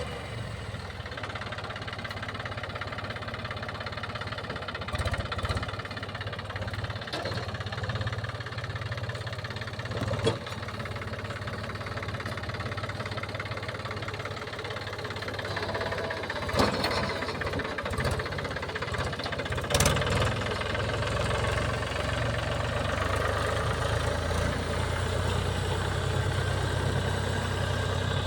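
Mahindra tractor's diesel engine running steadily with a low hum that slowly grows louder, and a few sharp knocks or clanks in the middle.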